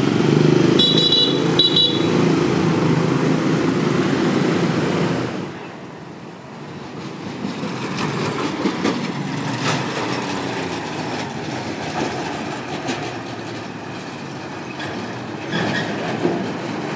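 Motorbikes riding across a steel bridge deck: a heavy rumble with the deck clattering under them, and two short horn beeps about a second in. The rumble drops away after about five seconds, and lighter rattling and clacking follows as more bikes cross.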